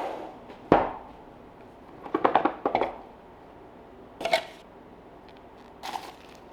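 The intercom's box and packed parts being opened and handled: a sharp click about a second in, a short run of clattering knocks around two to three seconds, then two more knocks.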